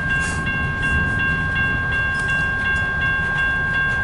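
Freight cars of a CN mixed-freight train rolling past a grade crossing with a low, steady rumble. The crossing bell rings about three times a second over a steady high tone.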